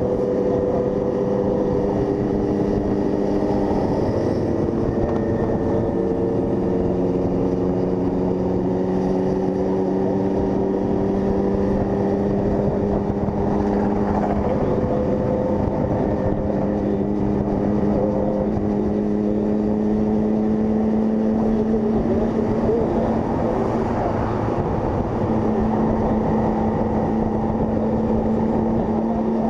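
Honda CG 160 Fan's single-cylinder four-stroke engine running steadily on the road, its pitch drifting slowly up and down with the throttle.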